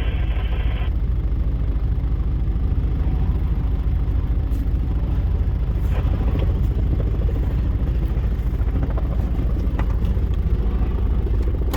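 Car engine idling, a steady low rumble with an even pulse.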